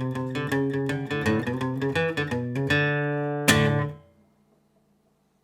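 Guitar playing the closing notes of a song: quick picked notes, then a final strummed chord about three and a half seconds in that rings briefly and fades out.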